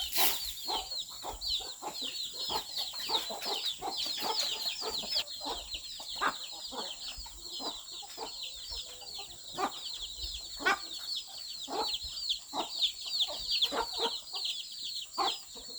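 Chickens clucking, with a dense run of rapid, high, short chirping calls throughout and a steady high-pitched whine behind them.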